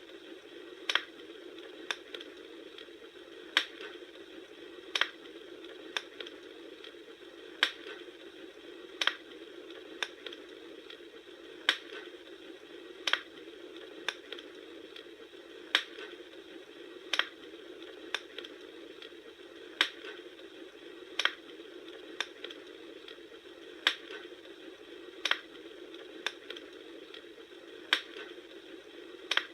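Bonfire crackling: sharp wood pops at very even spacing, about one every second and a third, over a steady hiss.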